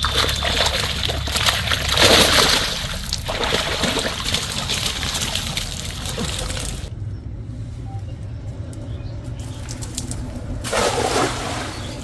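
Water splashing and sloshing, with a louder splash about two seconds in and another near the end.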